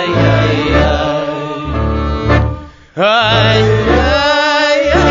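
A klezmer folk-punk band plays an instrumental passage: stepping bass notes under held melody lines. About two and a half seconds in the music drops away for a moment, then comes back with held notes that waver in pitch.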